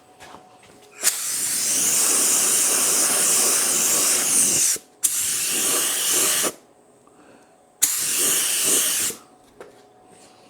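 3M Performance spray gun spraying a light first coat in three passes with three trigger pulls: a long hiss of about four seconds, then two shorter ones of about a second and a half each, each cutting on and off sharply.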